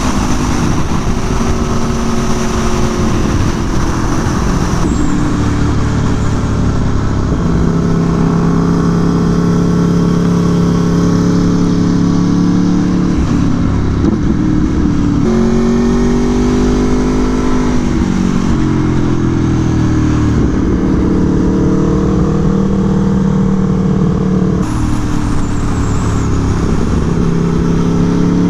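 Aprilia Tuono V4 1100 Factory's V4 engine running hard on track, its pitch climbing and dropping several times through gear changes and corners, over a steady rush of wind.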